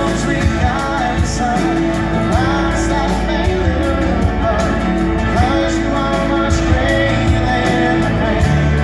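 Live Christian rock band playing with a male lead vocal singing over drums, bass and guitars.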